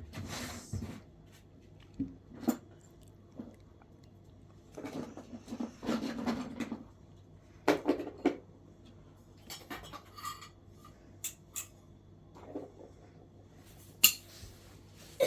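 Dishes and cutlery clinking and clattering in scattered taps, with the sharpest clicks near the end.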